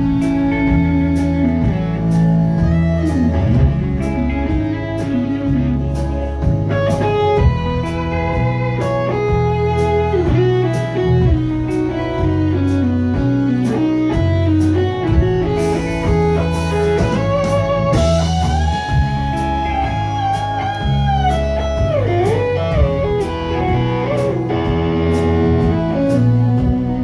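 Live band playing an instrumental passage: an electric guitar lead with bending notes over bass and a steady drum beat.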